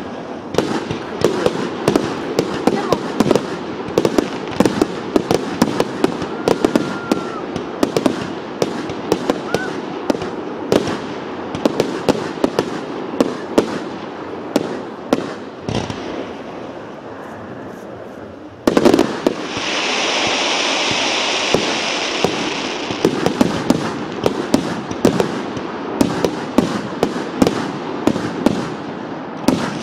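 Fireworks display: aerial shells bursting in rapid succession, several sharp bangs a second overlapping one another. About two-thirds of the way in the sound changes abruptly to a few seconds of steady hissing under the bangs, which then go on thick and fast.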